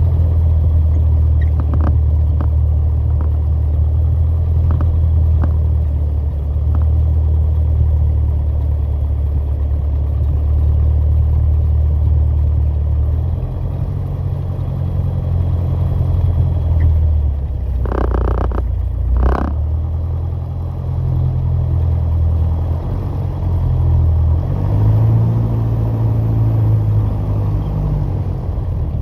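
Piper PA28 Warrior's four-cylinder piston engine droning steadily as heard from the aircraft. The engine note steps lower a little under halfway through and shifts again near the end, with two short louder bursts of noise just past the middle.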